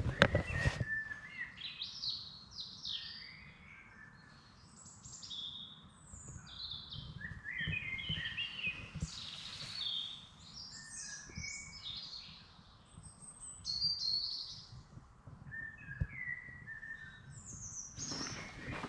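Several songbirds singing, a run of varied short chirps, trills and whistled phrases overlapping one another, with a couple of brief lulls. A rustling noise comes in near the end.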